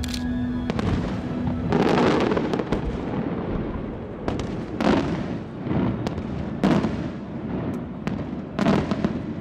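Aerial firework shells bursting: a string of sharp bangs at irregular intervals, each trailing off in a rolling echo, with the loudest about five, six and a half and eight and a half seconds in.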